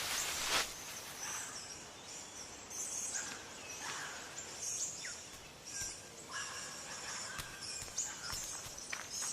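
Outdoor nature ambience: short bird chirps repeating over a soft hiss, after a brief rush of noise that ends about half a second in.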